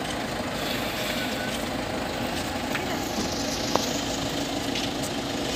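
A car engine idling steadily under the murmur of a crowd, with one short click about three and a half seconds in.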